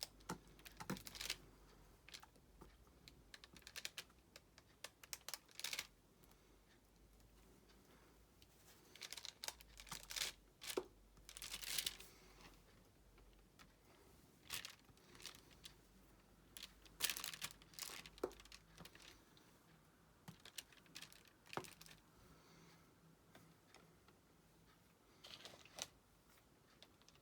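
Faint, irregular clicks and crinkly rustles of diamond painting work: a drill pen tapping resin drills onto the sticky canvas, with the canvas's plastic film rustling now and then.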